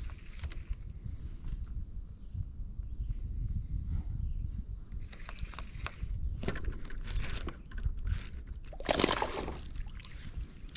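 Water sloshing and splashing against a kayak, with sharper splashes in the second half, the loudest near the end. Insects drone steadily in the background.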